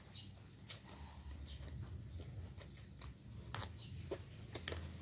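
A person chewing a mouthful of rice vermicelli salad with shredded young papaya close to the microphone, with irregular soft crunches and wet mouth clicks.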